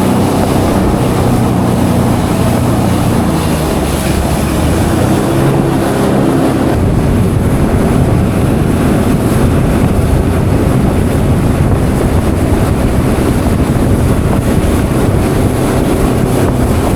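Jet ski engine running under way across the water, its pitch wavering over the first several seconds, with wind buffeting the microphone.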